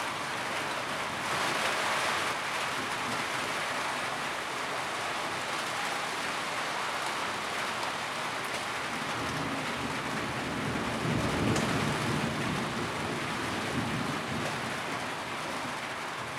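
Steady rain falling on a tin roof, a dense, even patter. A low rumble swells and fades in the second half.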